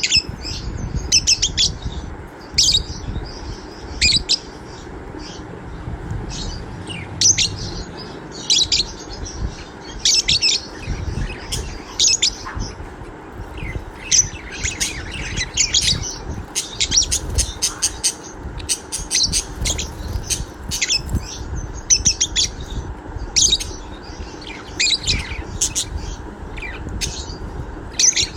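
Budgerigar chirping and warbling, in quick clusters of high chirps and trills that keep coming with short gaps, over a low background rumble.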